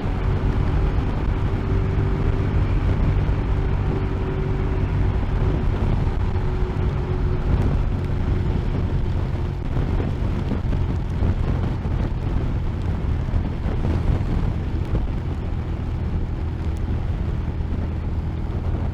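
Motorcycle riding along the road: a steady engine hum under a constant rushing noise, with a faint steady whine that fades away about halfway through.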